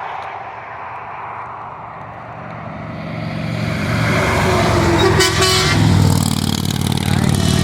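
Semi truck approaching and passing close by, sounding a short horn blast about four seconds in, followed by its diesel engine's loud rumble as it goes past.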